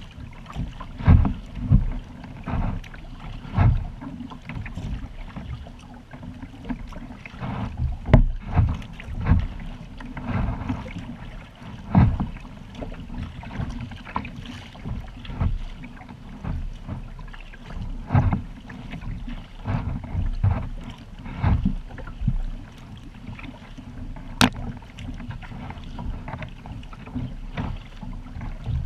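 Kayak on open water: paddle strokes and water splashing and slapping against the hull in irregular knocks every second or two, over a steady low rumble.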